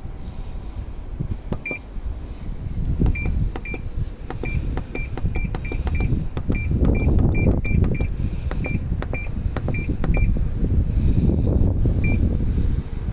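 Control panel of an Iris Ohyama IAW-T602E top-loading washing machine giving about twenty short, identical high beeps at irregular intervals, as its buttons are pressed. Under the beeps is a low rumbling that grows louder about halfway through and again near the end.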